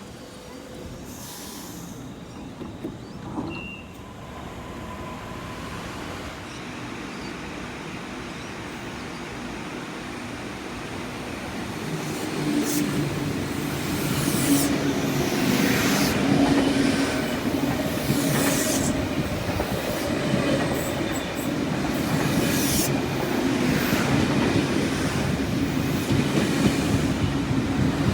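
A train drawing close and running past, growing louder from about twelve seconds in, with a steady running hum and repeated sharp clicks of the wheels on the track.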